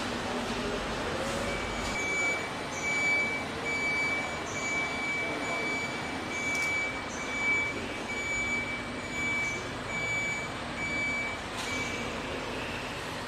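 High-pitched electronic warning beeper sounding a steady series of short beeps, about one a second, of the kind used on reversing or moving factory vehicles. It runs over a steady hiss of factory noise and stops near the end.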